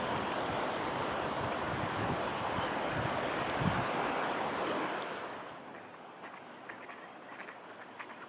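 Strong gusty wind buffeting the microphone, easing off about five seconds in. Short, high-pitched bird chirps sound twice early on and in a quick series near the end.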